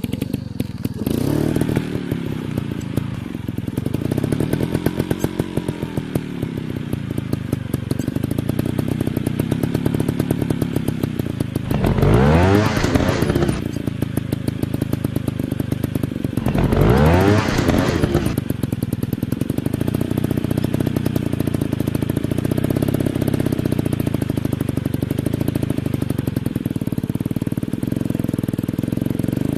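Dirt bike engines running, their pitch rising and falling as the throttle is worked, with two sharp high revs, the first about twelve seconds in and the second about five seconds later.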